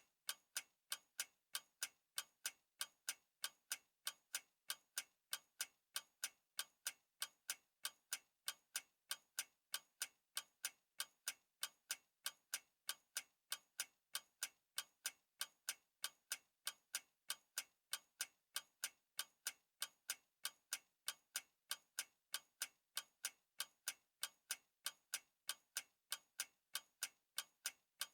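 Clock ticking steadily: an unbroken run of sharp, evenly spaced ticks, a few each second.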